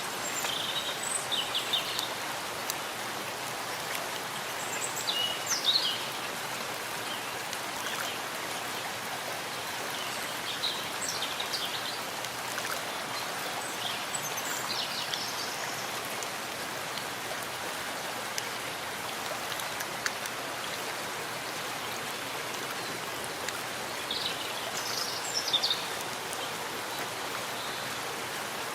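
Steady rain falling in a forest, an even hiss of drops on leaves. Birds chirp briefly over it several times, loudest about six seconds in and again near the end.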